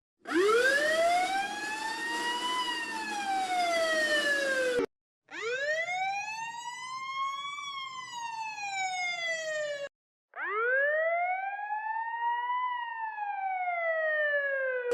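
Police siren wailing: three separate rise-and-fall cycles of about five seconds each. Each climbs and then slides back down in pitch, and each is cut off abruptly with a short silent gap before the next.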